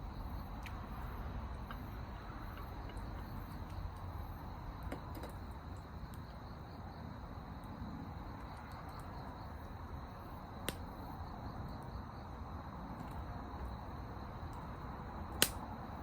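Crickets chirping steadily over a low outdoor hiss, with faint ticks and two sharp pops, one about eleven seconds in and a louder one near the end, as from wood in a campfire.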